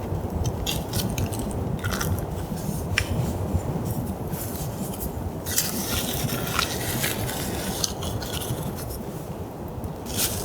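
Wood campfire crackling: irregular sharp pops and snaps, some in quick clusters, over a steady low rumble.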